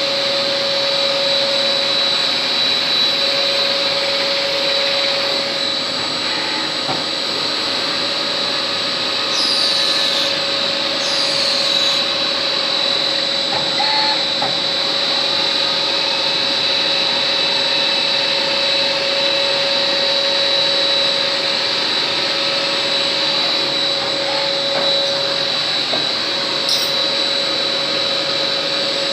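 Compact CNC automatic lathe running: a steady machine noise with a constant whine, and two brief falling whines about a third of the way through.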